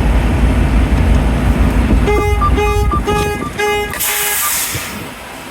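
Semi-truck engine idling with a low rumble that stops about three seconds in, while a warning buzzer sounds five short beeps in quick succession, followed by a brief hiss of air.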